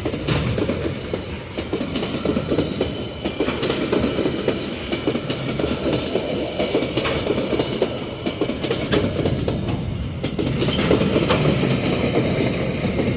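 Freight train wagons rolling past, a steady rumble of wheels on rail with a rapid clatter of clicks, a little louder near the end.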